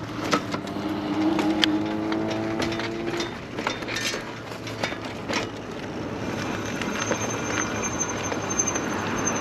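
Lectric electric bike riding over gravel and dirt: frequent rattles, clicks and knocks, with a wavering whine in the first three seconds and a hiss building toward the end.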